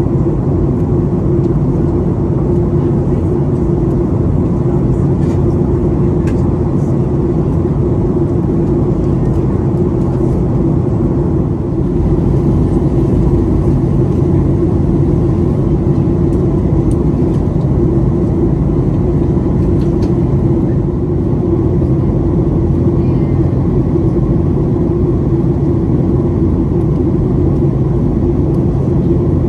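Steady cabin noise of a Boeing 737-800 in cruise: a constant rush of air with a deep engine drone and an even low hum.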